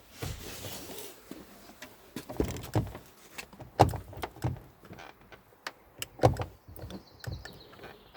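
Car door being worked by hand: a string of irregular knocks and clunks of uneven loudness, two of them much louder than the rest.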